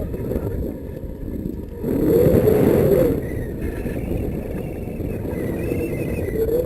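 Wind rushing over the microphone in flight: a loud, steady low rumble that swells about two seconds in.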